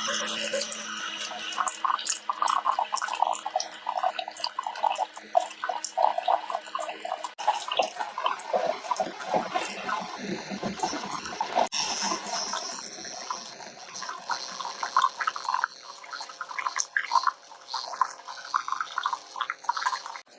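Keurig K-Duo single-serve coffee maker heating water and brewing a K-cup, with irregular gurgling and sputtering of water. A low steady hum under it stops about seven seconds in.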